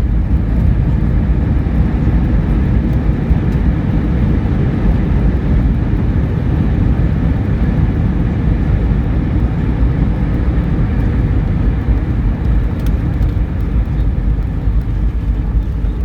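Cabin noise inside a British Airways Airbus A320 on the ground just after landing: a steady low rumble of engines and wheels with a faint engine whine, easing slightly near the end.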